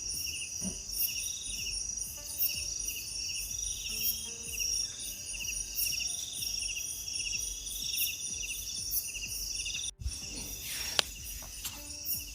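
A night chorus of crickets and other insects: repeated pulsed chirps over a steady high-pitched drone, with a brief dropout about ten seconds in.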